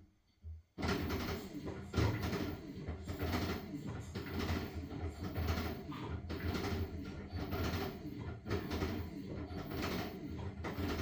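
LG washing machine at work on a load of blankets: after a short pause the drum starts turning just under a second in, and the motor hums under a rhythmic swish as the load tumbles, surging about once or twice a second.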